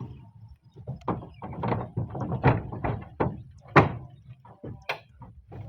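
Irregular knocks and thuds of roof tiles being handled and worked into place, the loudest knock about four seconds in.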